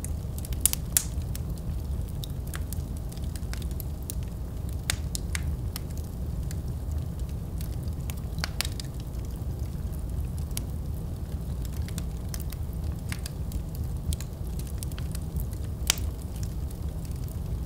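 Wood fire burning in a fireplace: a steady low rumble under constant irregular crackling, with a few louder sharp pops.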